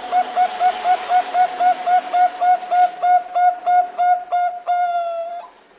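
Zebra dove (Bangkok-type perkutut) calling: a fast, even run of short clipped coos, about four a second, ending in one longer, slightly falling note.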